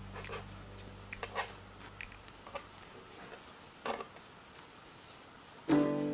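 Scattered light clicks and taps of knitting handwork, a dozen or so at irregular intervals over faint room hiss. Background music starts again near the end.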